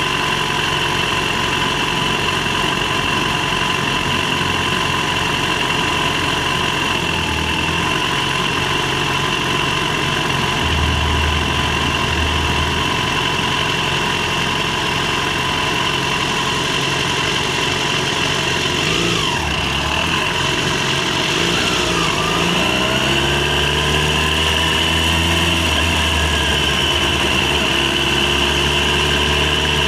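Yamaha FZ6's inline-four engine running as the motorcycle rides along. About two-thirds through, the engine note drops as the bike slows, then rises again as it accelerates.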